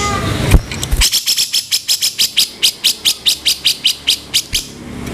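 Grey-cheeked bulbul (cucak jenggot) giving a fast run of about twenty harsh, rough notes, some five or six a second, starting about a second in and stopping about four and a half seconds in.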